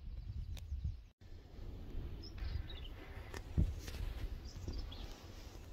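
A few faint bird chirps, short and falling in pitch, over a steady low rumble. The sound drops out briefly about a second in, and there is a soft thump a little past the middle.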